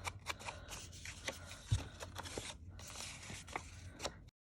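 Paper and craft materials being handled on a work table: rustling with many small taps and crinkles. It cuts off abruptly to silence near the end.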